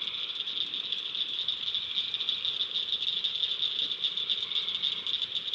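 A chorus of night-singing insects, a steady high-pitched trill made of very fast pulses.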